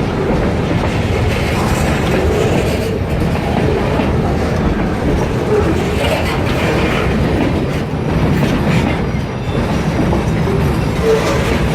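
Kiamichi Railroad freight train rolling past, a loud, steady rumble of wheels on rail.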